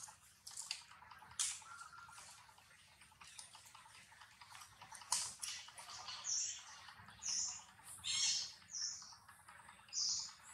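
A bird chirping: short high-pitched chirps about once a second from about six seconds in, with a few sharp clicks before them.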